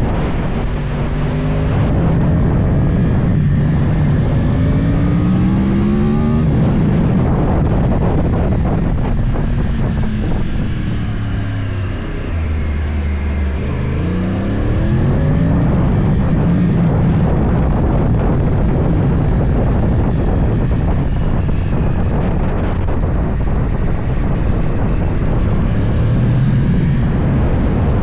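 Yamaha YZF-R1's crossplane inline-four through a full Akrapovič exhaust, heard onboard while riding. The revs climb over the first several seconds, drop as the bike slows around the middle, then climb again and hold steady.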